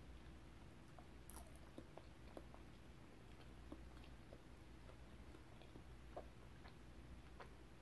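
Close-miked, closed-mouth chewing: soft, scattered wet mouth clicks, over a faint steady low hum.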